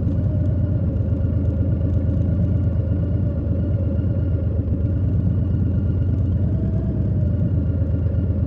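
Harley-Davidson Low Rider S's Milwaukee-Eight 117 V-twin engine and exhaust running at a steady cruise, a loud, even rumble with no change in pitch.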